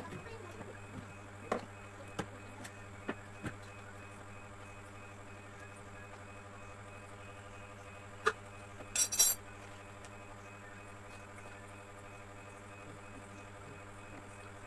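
Scattered sharp metallic clicks and knocks of tools and parts being handled during a washing-machine repair, with a louder, rattling clink about nine seconds in, over a steady low hum.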